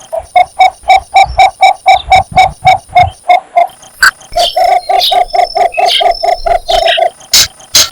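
Cinnamon bittern giving its mate-advertising call: two long runs of short, low, evenly spaced croaking notes, about five a second, with a short break partway through. A few sharp clicks cut in near the middle and near the end.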